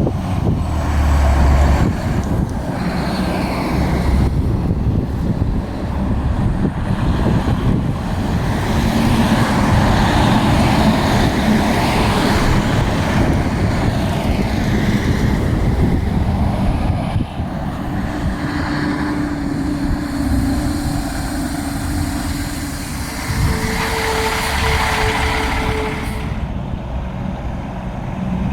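Heavy diesel trucks running and moving along a street, with continuous engine and traffic noise; a steadier engine note holds for several seconds in the second half.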